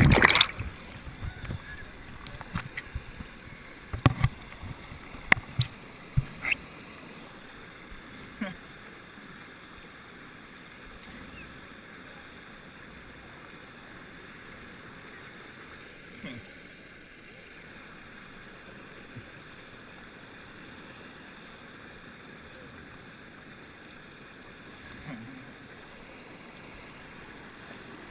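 Rushing water of a strong river current at a small waterfall, heard underwater. There is a loud splash at the start and a few sharp knocks in the first several seconds, then a steady rush of water.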